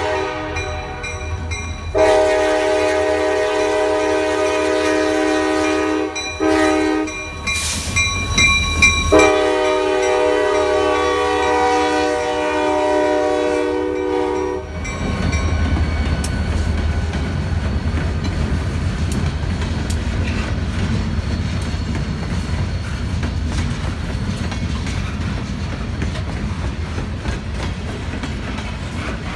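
Diesel locomotive air horn sounding the grade-crossing signal: two long blasts, a short one, and a final long blast that cuts off about halfway through as the lead unit reaches the crossing. Then the rumble of two EMD SD40-2 diesels (16-cylinder two-stroke) passing close, and freight cars' wheels clattering over the crossing.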